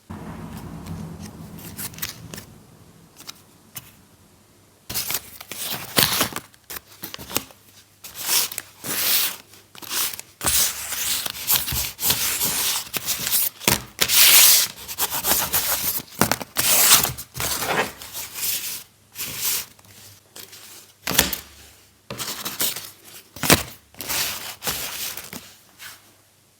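Paper being handled by hand: irregular rustling, crinkling and rubbing strokes, soft at first and much denser and louder from about five seconds in.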